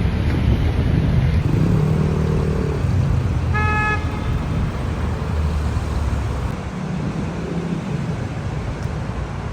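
Road traffic running steadily, with a short car-horn toot about three and a half seconds in.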